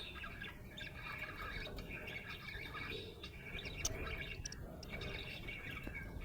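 Budgerigar chirping and chattering continuously, with a few sharper high chirps about two-thirds of the way through.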